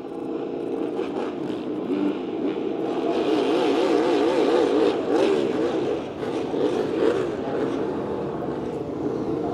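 Honda RC213V MotoGP bike's 1,000 cc V4 engine running on track, its pitch wavering quickly up and down as it revs. It grows louder a few seconds in, dips briefly, then rises again.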